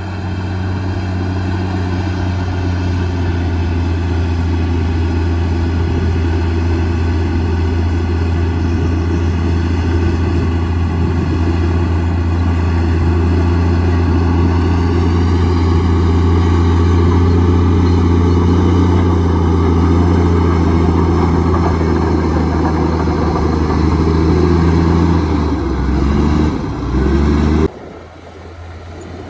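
Komatsu D58E bulldozer's diesel engine running steadily at high revs. Near the end the pitch dips briefly and then the sound drops off sharply.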